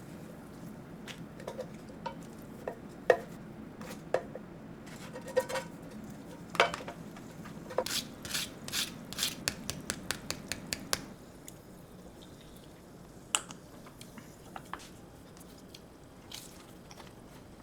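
Kitchen utensils clinking and scraping against dishes and pots. The taps are scattered at first, then come in a quick run of about three a second in the middle, and thin out after that.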